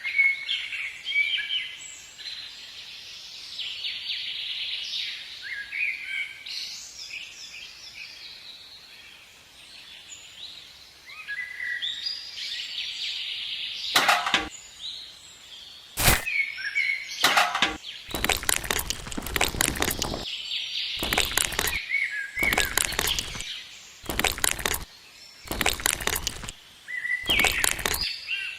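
Birds chirping in the background. From about halfway through, a run of harsh noise bursts starts, each lasting a second or two with short gaps between them, from some unseen tool or handling noise.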